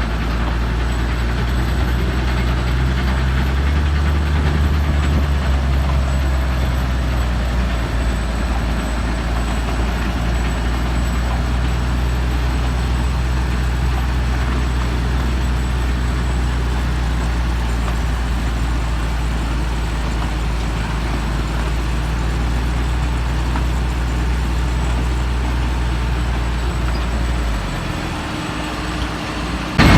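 Tractor engine running steadily, its pitch rising slightly about four seconds in and dropping near the end.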